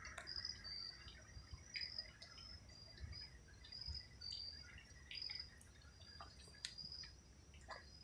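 Faint crickets at night: short high chirps repeating about once or twice a second over a steady high insect trill, with scattered faint clicks.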